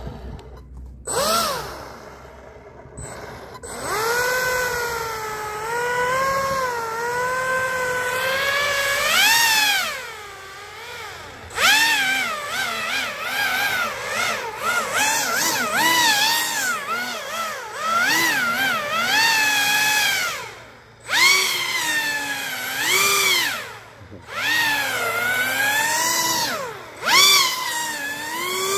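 Pro Boat Aerotrooper RC airboat's electric motor and air propeller running on a 4S battery, a whine that rises and falls in pitch with repeated throttle bursts and drops off briefly several times.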